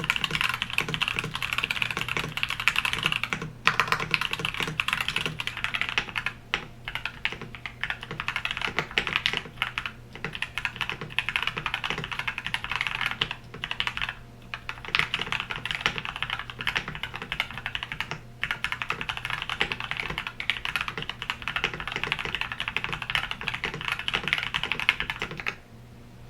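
Fast, continuous typing on a mechanical keyboard fitted with Gateron Milky Yellow linear switches, with a few brief pauses, stopping near the end.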